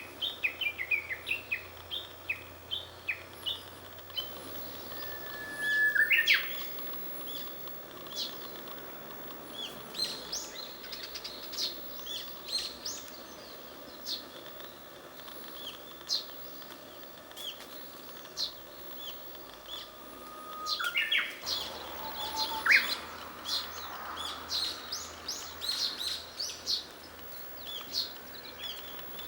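Japanese bush warbler singing its song twice, about six seconds in and again about twenty-one seconds in: a long held whistle that breaks into a quick rising flourish. Other small birds chirp sharply and repeatedly throughout.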